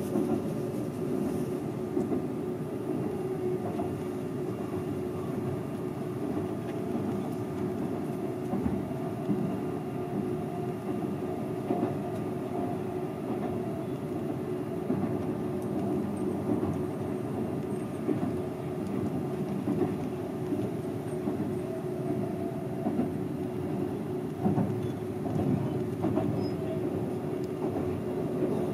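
Seibu 001 series Laview electric train running along the line, heard from inside the front car: a steady rumble of wheels on rail with a continuous hum and occasional rail-joint clicks.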